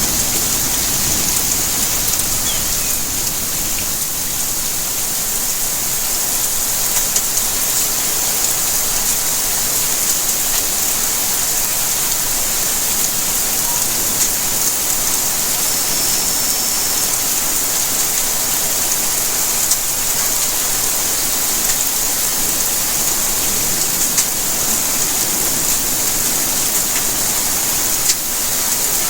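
Steady rainfall: an even hiss with scattered faint drop ticks.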